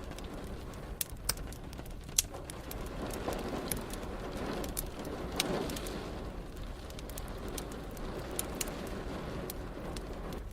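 A wood fire crackling, with scattered sharp pops, the loudest about two seconds in, over a steady rain hiss that swells for a few seconds mid-way.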